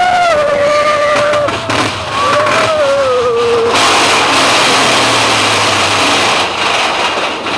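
Fairground roller coaster running on its track: a long, wavering high-pitched squeal for the first three and a half seconds, then a steady loud rush of wind and rumble.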